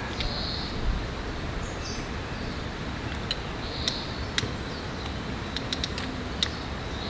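Outdoor forest ambience: a low wind rumble with a few short high chirps, and a scatter of sharp clicks in the second half.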